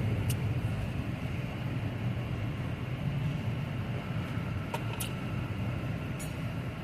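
Freight train cars rolling slowly past a grade crossing: a steady rumble with a few sharp clicks from the wheels and couplers.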